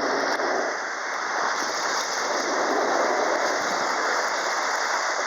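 Steady rush of running water, an even hiss without pauses.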